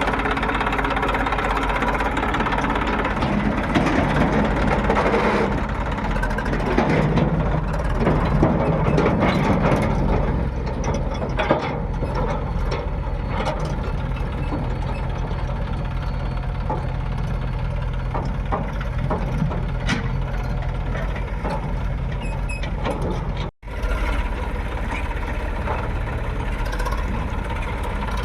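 Diesel engine of a JCB 3DX backhoe loader running steadily, louder and rougher for a few seconds early on, between about 4 and 10 seconds in. The sound cuts out for an instant near the end.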